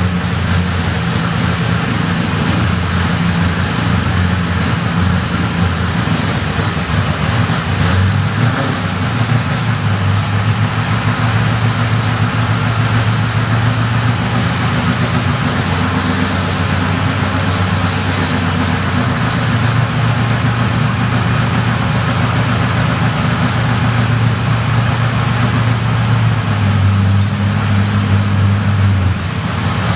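Holden Torana A9X engine running just after its first start on a fresh build, held at a fast idle. Its speed steps up and down several times.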